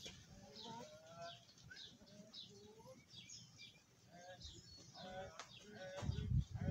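Small birds chirping in many short, quick calls, with farm animals calling now and then among them; a louder low sound comes in near the end.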